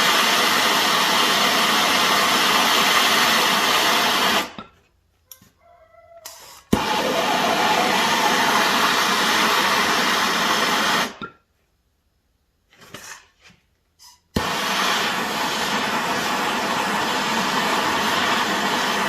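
Gas torch burning with a steady rushing roar while heating a seized hydraulic cylinder gland nut to loosen it. It cuts off twice and each time relights suddenly with a sharp click.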